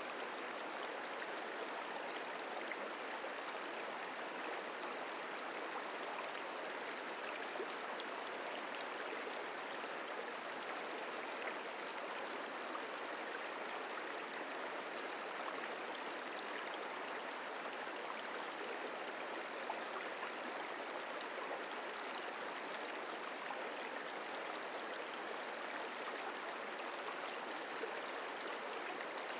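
The Merced River flowing: a steady, even rush of water.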